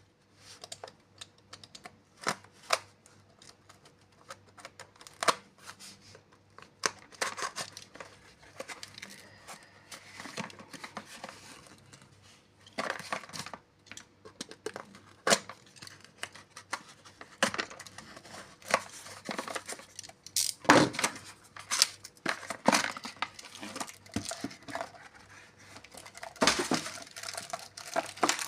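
Packaging being handled and unwrapped: irregular crinkling and tearing of wrapping with scattered sharp clicks and knocks, the loudest about two-thirds of the way through.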